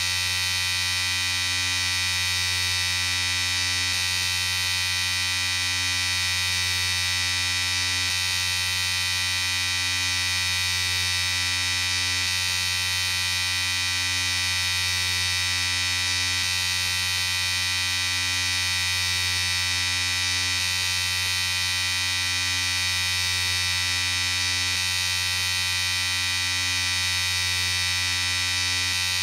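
Electric shaver buzzing steadily and unbroken, a high, even buzz over a low hum.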